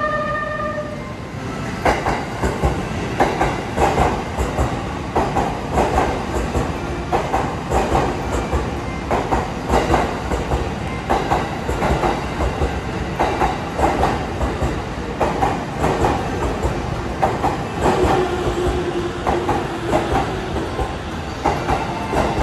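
E257 series limited express electric train rolling into the platform, its wheels clacking over rail joints and points in a steady rhythm of sharp knocks over a running rumble. Near the end there is a short held squeal.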